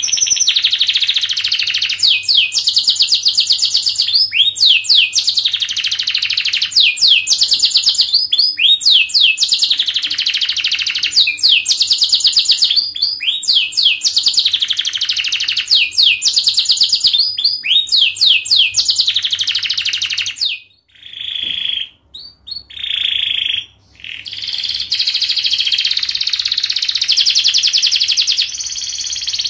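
Canary singing a long, fast, tightly packed song of rapid trills, with sweeping notes recurring about every two seconds. About two-thirds of the way through it breaks into a few short phrases with gaps, then goes back to continuous trilling.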